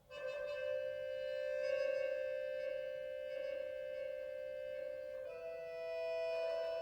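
Accordion playing slow, held chords. The chord enters right after a short pause, and the notes shift to a new chord about five seconds in.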